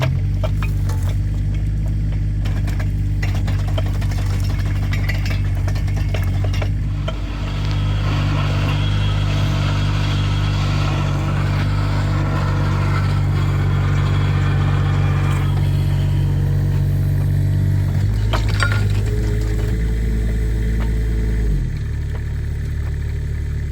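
Kubota mini excavator's diesel engine running steadily under load while it drives a hydraulic post-hole auger into the ground, with extra grinding noise through the middle. The engine note shifts a few times and settles lower near the end as the load comes off.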